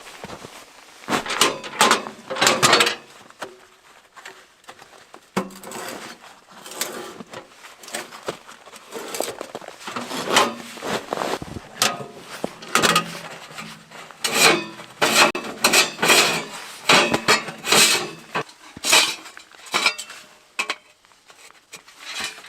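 Camping gear being handled: irregular metallic clinks, knocks and rattles mixed with rustling, in uneven bursts throughout.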